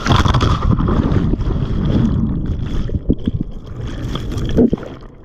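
A breaking ocean wave crashing over the handheld action camera in the shallow surf: a sudden loud rush of churning water and buffeting on the microphone, with scattered knocks, that slowly eases toward the end.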